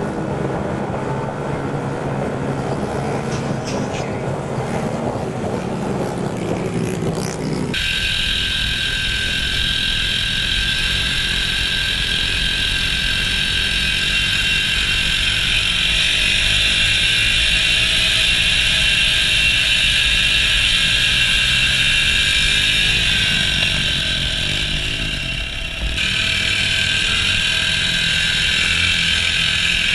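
Small four-stroke single-cylinder mini bike engines running and revving. The sound changes abruptly about eight seconds in and again near the end.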